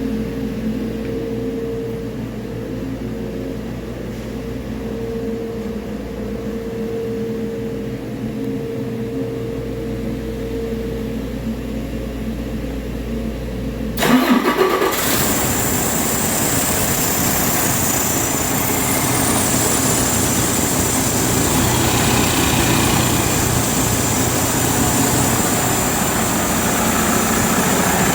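A 2016 Detroit Diesel DD13 inline-six diesel engine on a test run: a steady low hum with a held tone, then the engine starts abruptly about halfway through and keeps running steadily.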